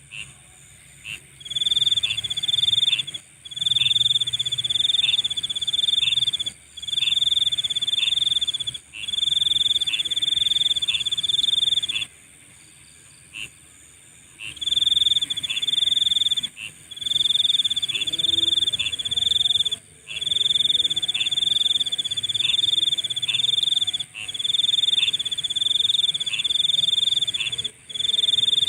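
Night insect chorus: a loud, high trilling song in repeated bursts of a second or two each, with one longer pause about halfway through, over a steady, even higher continuous buzz.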